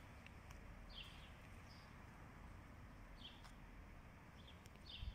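Faint outdoor ambience with a bird giving short high chirps every second or so over a low steady hiss.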